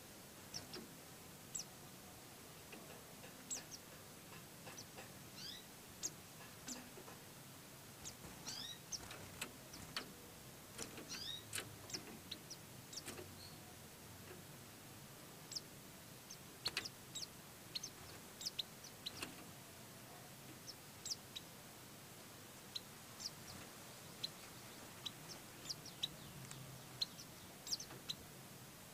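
Faint, short, high chirps from white-eyes (pleci), scattered irregularly and sometimes in quick runs of two or three, many dropping quickly in pitch.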